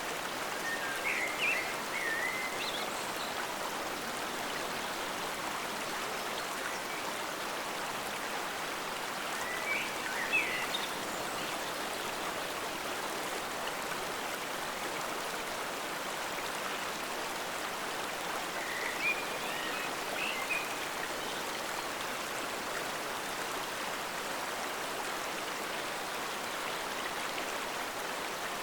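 Forest stream flowing with a steady rush of water. Short high chirping rises over it three times: near the start, about ten seconds in and about twenty seconds in.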